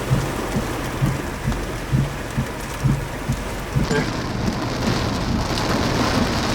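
Heavy rain hissing steadily during a tornadic thunderstorm, with low thumps about twice a second. The hiss grows heavier about four seconds in.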